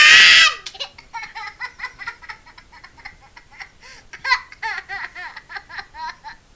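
A young child lets out a loud high squeal, then laughs in a long run of short giggles.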